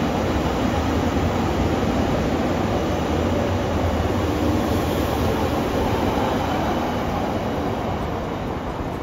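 A train running past, a steady rumble and rail noise that eases slightly near the end.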